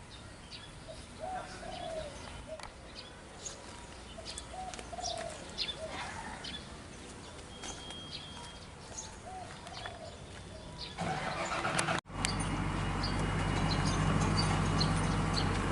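Birds chirping and doves cooing. About two-thirds of the way in, an excavator's diesel engine comes in, breaks off for an instant and then runs steadily and louder.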